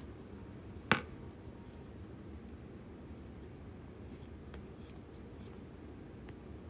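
Kitchen handling sounds: one sharp click about a second in, then a few faint light ticks and rustles over a steady low hum.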